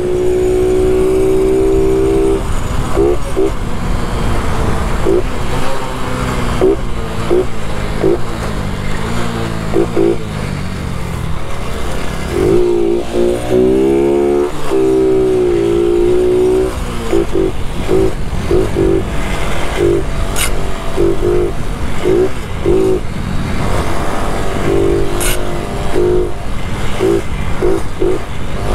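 Honda Biz 125's single-cylinder engine running at road speed, its pitch dipping and climbing again partway through as the throttle changes, with wind noise from riding.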